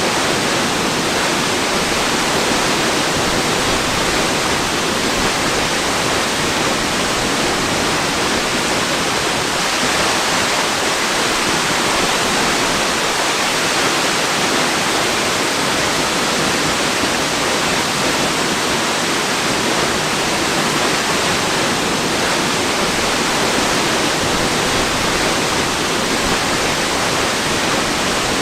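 Waterfall: steady, even rushing of falling water with no changes.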